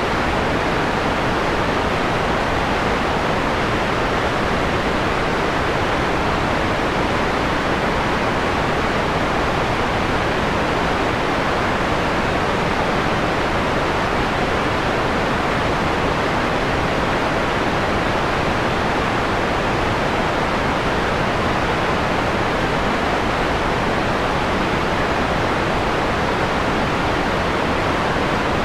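Steady generated white noise, partly filtered, with the highest treble rolled off so the hiss sounds somewhat softened.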